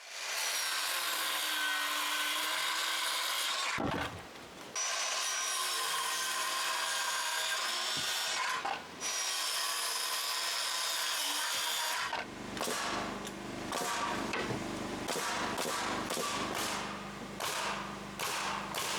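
Power saw cutting lumber: three cuts of a few seconds each with a steady high whine, then irregular knocks and clatter of wood being handled over the tool's low hum.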